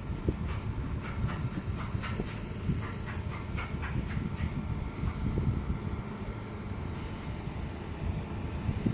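Steady low machine rumble with scattered sharp clicks and ticks.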